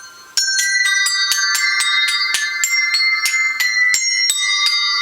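Round bells, a ring of tuned bells, struck with a mallet in quick succession at about four strikes a second. The bell notes ring on and overlap. The strikes start about a third of a second in, after a brief quiet.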